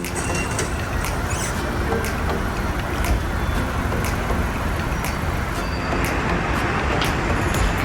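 Steady vehicle noise, strongest in the low range, with a few faint clicks.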